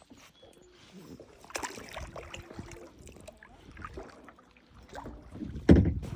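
Small splashes, drips and knocks of a kayak paddle and hull on a lake, with one loud thump against the kayak or its camera near the end.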